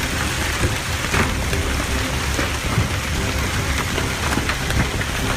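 Heavy downpour pelting hard surfaces: a dense, steady hiss with scattered sharper ticks.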